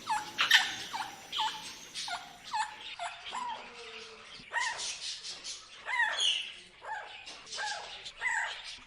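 Parrot calling: short, sharp calls repeated about twice a second, each dropping quickly in pitch.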